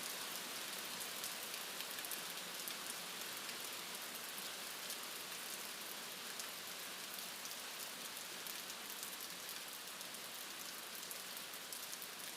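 Steady rain falling and pattering on surfaces, with many small drop impacts.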